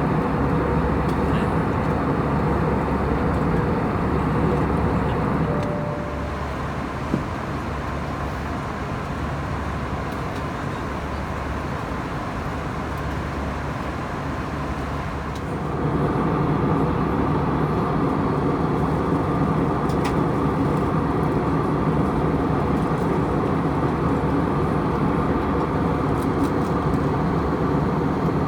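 Steady in-flight cabin drone of an Airbus A321: rushing air with the hum of its two CFM56 turbofan engines. The drone drops to a quieter, thinner rumble about six seconds in, with a single click just after, and comes back fuller about sixteen seconds in.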